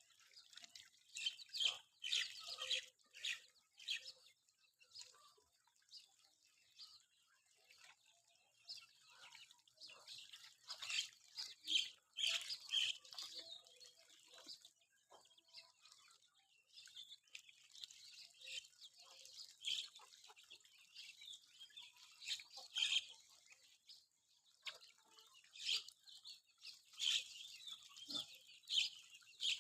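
Village chickens calling, with many short, high-pitched chirps in irregular clusters.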